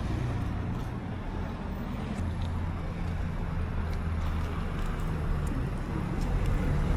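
Steady low rumble of a road vehicle, with a faint hum in it and an even road-noise hiss above, typical of the sound inside a moving car.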